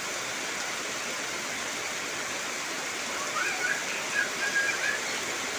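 Heavy rain falling as a steady, even hiss. A few short whistle-like calls come a little past halfway through.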